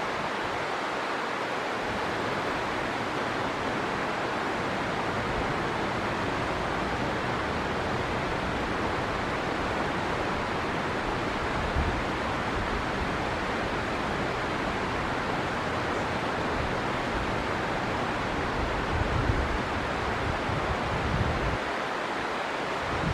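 Steady rushing of flowing river water, with a few low gusts of wind buffeting the microphone about halfway through and again near the end.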